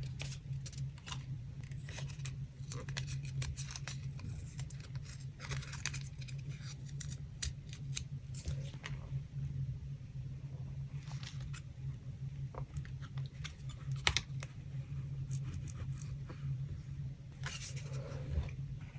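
Paper being handled for a collage: scattered rustles, snips and small clicks, over a steady low hum.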